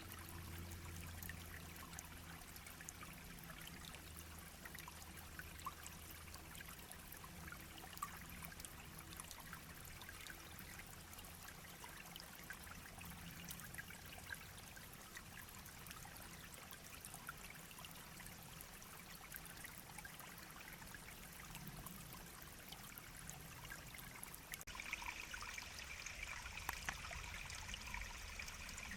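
A small shallow stream babbling and trickling gently, a steady wash with many small splashes. About 25 seconds in the sound abruptly turns brighter and higher.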